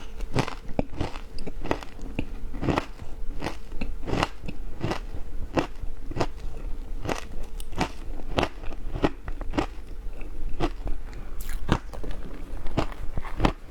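Ice being bitten and chewed close to the microphone: a steady run of sharp crunches, about two a second, with a faint steady hum underneath.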